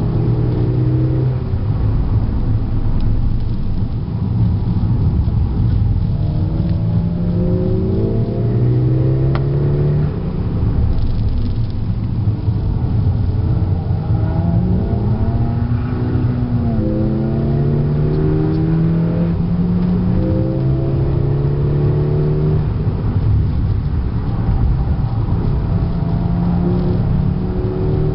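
Tuned Volkswagen Golf GTI Mk6's turbocharged four-cylinder with an APR K04 turbo and modified 3-inch downpipe and exhaust, heard from inside the cabin while driven hard: the engine note rises again and again through the revs and drops back at each change, over steady road and tyre noise.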